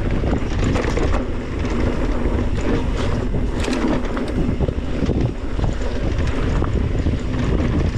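Wind rushing over the camera microphone as a mountain bike rolls down a dirt trail, with rumbling tyre noise and scattered rattles and knocks from the bike over rough ground.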